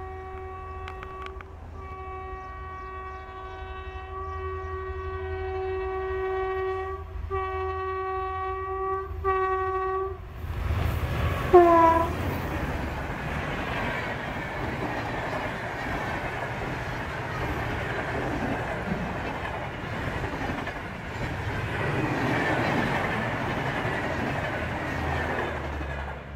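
WAP-5 electric locomotive sounding its horn in several long blasts as it approaches, the horn's pitch falling as the locomotive passes at speed about eleven seconds in. Then the Shatabdi Express coaches rush past with a steady rumble and wheel clatter.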